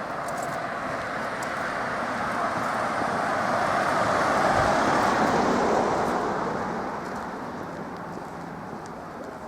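A car driving past on the road, its noise swelling to a peak about halfway through and then fading away.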